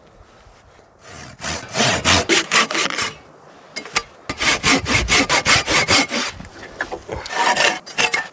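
Hand saw cutting through wood in three runs of quick back-and-forth strokes, with short pauses between them.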